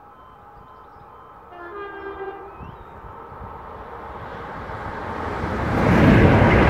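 Two coupled Class 321 electric multiple units approaching at speed: a two-note horn blast about a second and a half in, then the rumble of wheels on rail growing steadily louder until the train passes close by near the end.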